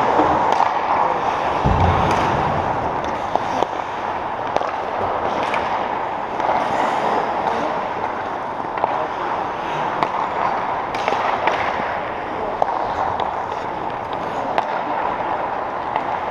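Rink game play: sharp clacks and knocks of sticks and hits against the boards over a steady arena din, with a heavy thud about two seconds in.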